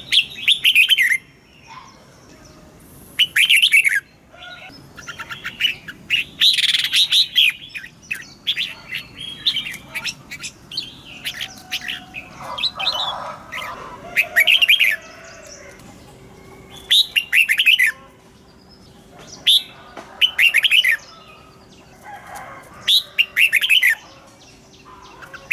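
Red-whiskered bulbul singing: loud short phrases of quick falling notes, repeated every two to three seconds, with softer chirps in between.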